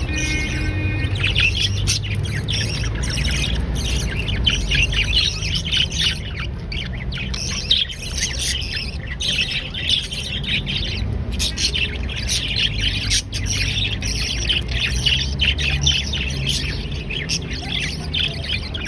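Budgerigars chirping and chattering continuously, many rapid overlapping short calls, over a steady low hum.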